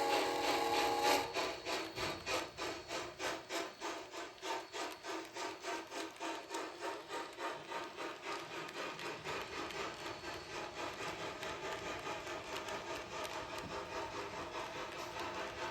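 HO-scale model steam locomotive running on the layout: a whistle blast that stops about a second in, then a steady rhythmic chuffing, about three beats a second at first, growing quicker and more even as it goes.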